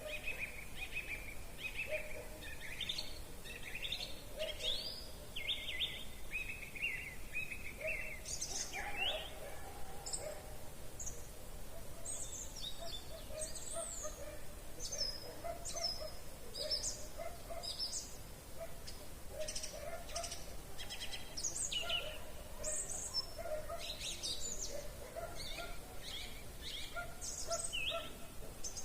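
Several wild birds singing together in spring, with quick repeated notes in the first part giving way to high chirps and trills, and lower repeated calls underneath throughout.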